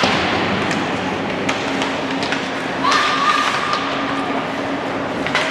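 Indoor basketball game sounds in a large, echoing gym: a steady wash of crowd and player voices under a constant hum, with scattered sharp thumps and taps. About three seconds in comes a short squeak of about a second, typical of a sneaker on the court floor.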